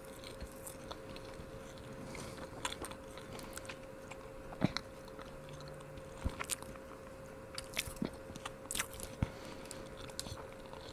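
Chewing a jumbo strawberry marshmallow, heard as scattered soft mouth clicks and smacks over a faint steady hum.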